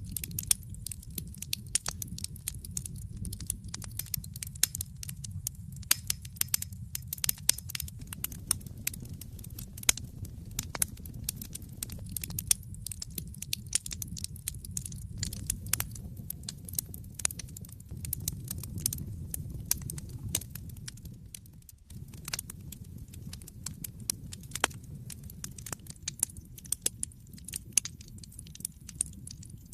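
Wood fire burning in an open fireplace: dense, irregular crackling and sharp pops from the burning logs over a steady low rumble of the flames. The low rumble drops out for a moment about two-thirds of the way through.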